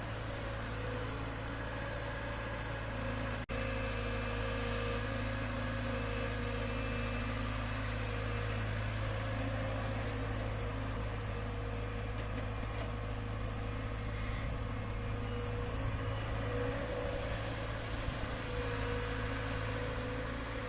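Tractor diesel engine running steadily, a low drone that holds its pitch, with a momentary break about three and a half seconds in.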